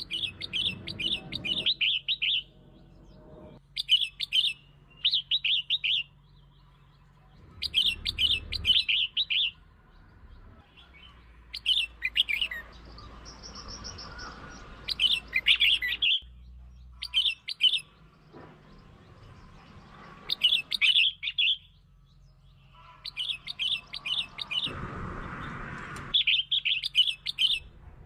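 Red-whiskered bulbul song: short, rapid chattering phrases about a second long, repeated every two to three seconds. It is the kind of song used as a lure recording to provoke territorial bulbuls.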